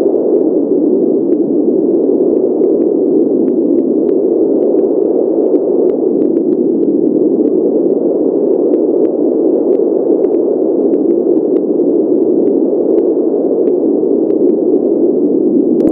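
Steady pink noise: an even, muffled hiss with a dull low-mid body and little treble, unchanging throughout, with faint scattered ticks.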